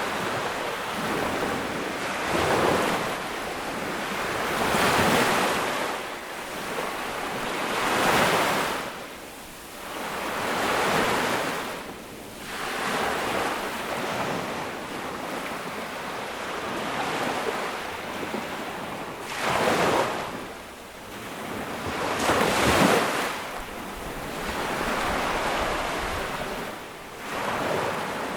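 Ocean waves breaking on a beach, surf surging and washing back in repeated swells every few seconds, with some wind noise.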